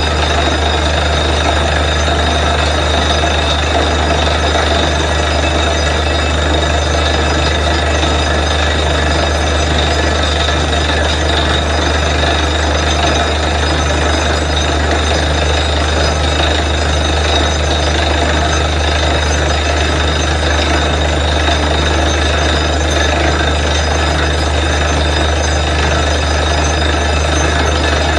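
Borewell drilling rig running steadily at full load, its engine and air compressor driving the drill, with a constant low hum and a steady whine.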